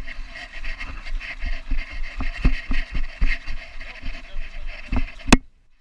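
Body-mounted GoPro on a Belgian Malinois picking up irregular thumps and knocks as the dog moves, over a steady hiss. A sharp, loud knock comes near the end.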